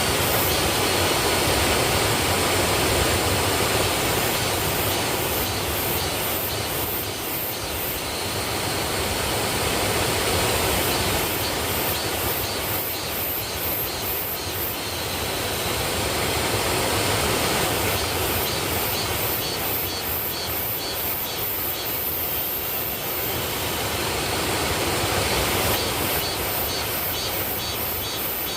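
Waterfall: a steady rush of falling water that swells and eases slowly. Rapid, high, even pulsing comes and goes over it several times.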